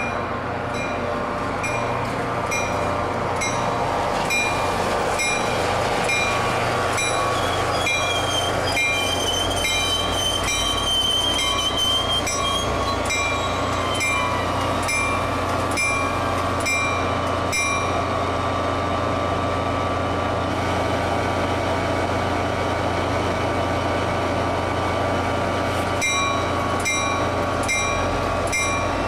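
Diesel locomotive running as the train creeps slowly in, with a bell ringing about twice a second. A high wheel squeal sounds briefly about ten seconds in, and the bell stops for several seconds past the middle before ringing again near the end.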